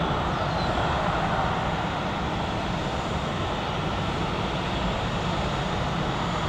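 Jet airliner engines running at a distance, a steady even noise that neither rises nor falls.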